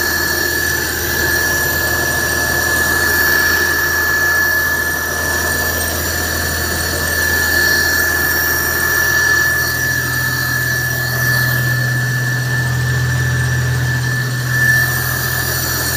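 Maruti Omni van's three-cylinder petrol engine idling steadily, with a constant high-pitched squeal over it.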